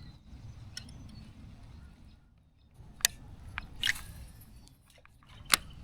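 Handling noise on a kayak: several sharp clicks and knocks a second or so apart, the loudest about three seconds in and near the end, over a low steady rumble, likely from working on the stiff fin of the pedal drive.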